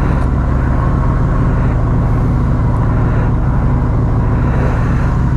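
Royal Enfield Continental GT 650's 648 cc parallel-twin engine running steadily at an even, low engine note, with no revving.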